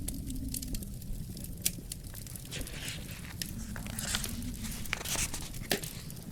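Fireplace fire crackling, with irregular sharp pops over a steady low rumble of the flames and a few brief spells of hissing.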